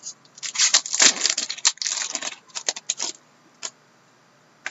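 Trading cards and a card pack wrapper being handled: a busy run of crinkling and rustling for about three seconds, then a single click near the end.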